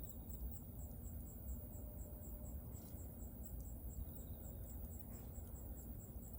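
Wood bonfire burning with a steady low rumble and a few soft crackles. A cricket chirps steadily throughout, a high, even pulse about four times a second.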